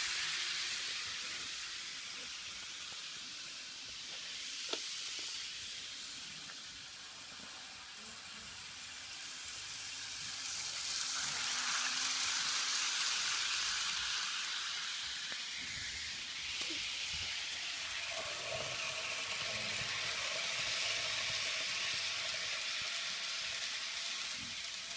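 KATO model steam train running on its track: a steady, high hiss of wheels and small motor that swells and fades as the train passes, loudest about halfway through, with a single sharp click about five seconds in.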